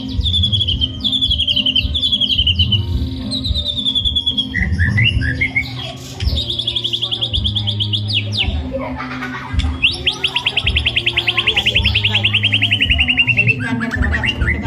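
White-rumped shama (murai batu) singing loudly, with fast trills of repeated notes that slide down in pitch and short varied phrases between them.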